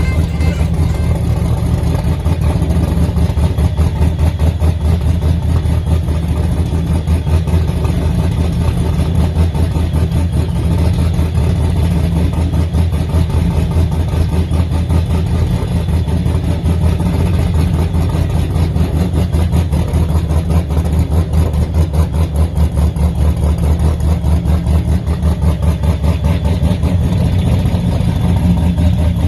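Supercharged 408 stroker V8 in a Holden VX Commodore idling steadily, a deep rumble with a fast, even pulse.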